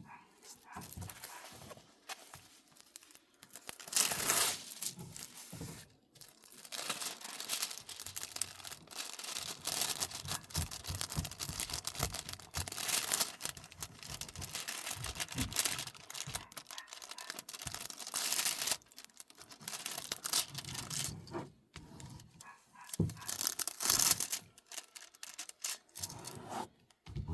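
Plastic packaging of a diamond painting kit being crinkled and torn open by hand, in irregular bursts, with the loudest tears about four seconds in and near the end.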